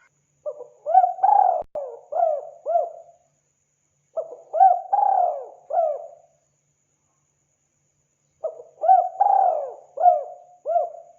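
Spotted dove (tekukur) song from a lure recording: three phrases of repeated rising-and-falling coos, each phrase about two to three seconds long, separated by pauses of one to two seconds.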